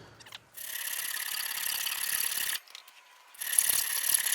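Hand hacksaw cutting through 4140 steel shaft: two long, slow, rasping strokes with a short pause between them. The owner thinks the blade is getting worn thin.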